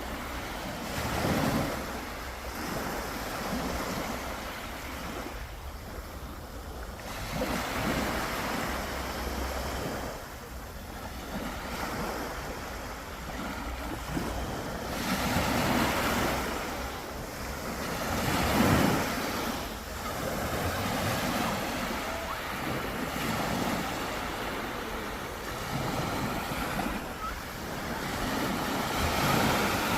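Sea waves breaking on the shore, the surf swelling and falling away every few seconds.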